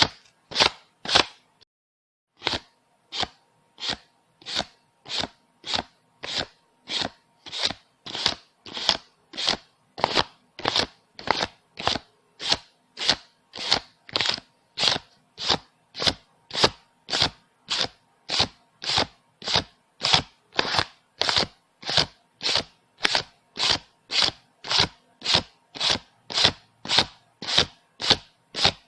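Paper banknotes counted by hand, each bill flicked off the stack with a crisp snap, about two a second in an even rhythm. A pause of about a second and a half comes near the start, then the counting runs on steadily.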